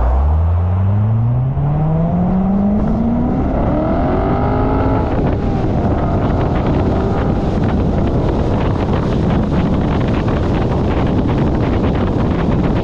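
An engine accelerating, its pitch climbing steadily for about five seconds, then running on under heavy wind noise on the microphone.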